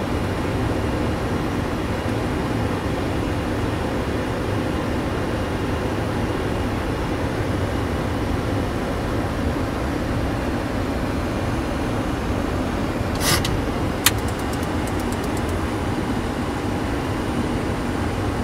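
Steady flight-deck noise of a Boeing 737-600 on final approach: airflow and engine noise. About 13 seconds in there is a brief hiss, then a single sharp click followed by a short run of faint ticks.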